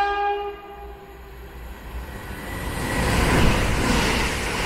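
Northern Class 333 electric multiple unit running through the station at speed without stopping. The tail of its two-tone horn cuts off about half a second in. Then a growing rush of wheels and air is loudest in the second half as the train passes close by.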